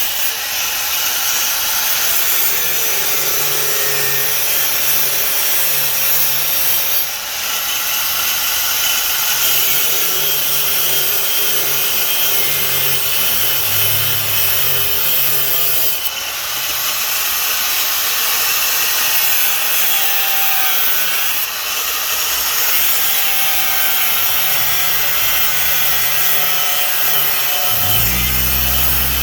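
A 4.5-inch angle grinder with a cut-off disc cutting through sheet metal, trimming body metal to clear larger tires. It is a steady, loud, high-pitched grinding, with short dips about 7, 16 and 21 seconds in. A low hum comes in near the end.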